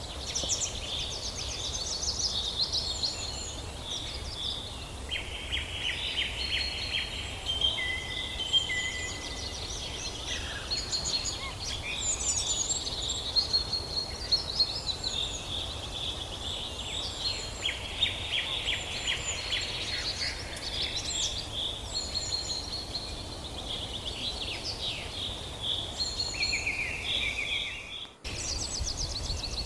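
A chorus of several songbirds singing and chirping at once in a forest, with overlapping high trills, rapid chirp runs and short whistled notes, over a steady low rumble. The sound drops out briefly near the end.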